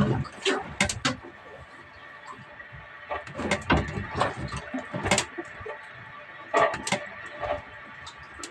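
Irregular knocks and clatter from handling gear on a small fishing boat, over a faint steady hum.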